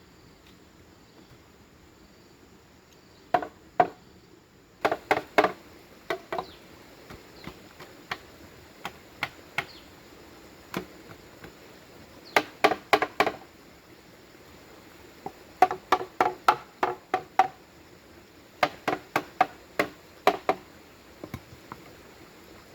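Bamboo being struck with a tool in short bursts of three to five quick, sharp blows, with pauses between the bursts.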